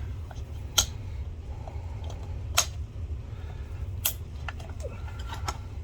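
Light clicks and taps of small parts and tools being handled on a workbench, three of them sharper than the rest, over a steady low hum.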